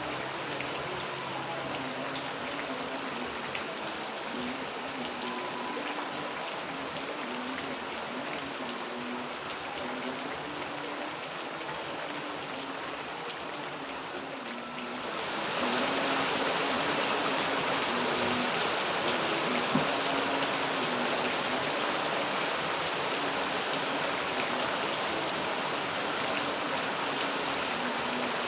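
Steady rain falling, a dense hiss of drops; about halfway through it gets louder and brighter, like the rain coming down harder.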